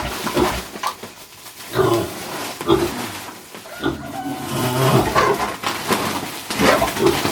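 Philippine native pigs calling, a string of loud calls roughly one a second.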